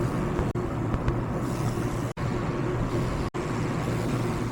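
Steady rushing, rumbling background noise, broken three times by short, sudden dropouts to silence.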